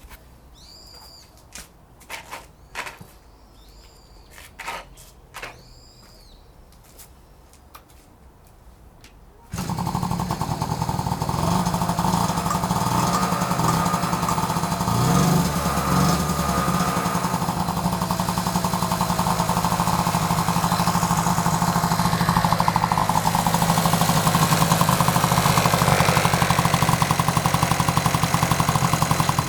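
Honda Motocompo's 49 cc two-stroke single-cylinder engine starts suddenly about nine seconds in and then runs steadily. Before it starts there are only a few faint clicks, knocks and short chirps.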